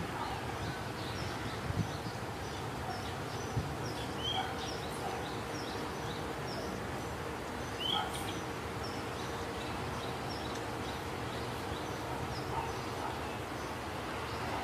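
Steady background ambience with small birds chirping: faint short high chirps repeating throughout, and a couple of brief louder rising chirps about four and eight seconds in.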